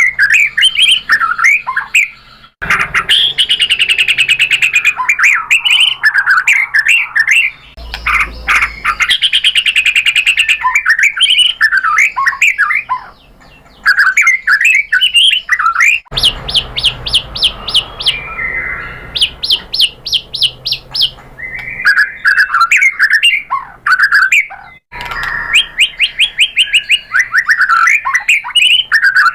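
White-rumped shama (murai batu) singing a long, varied song of loud whistled phrases, broken by brief pauses, with runs of fast repeated notes about halfway through and again near the end.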